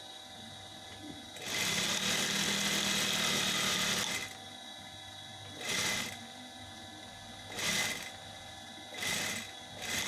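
Sewing machine running: one stretch of about two and a half seconds, then four short bursts of stitching with pauses between.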